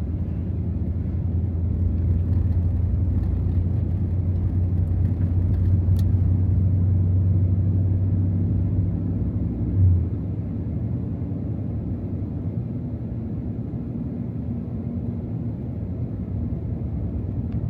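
Supercharged 6.2-litre V8 of a 2024 Ram TRX pickup, heard while driving through snow: a steady low drone. Near the middle it gives a brief bump and then eases off to a quieter drone.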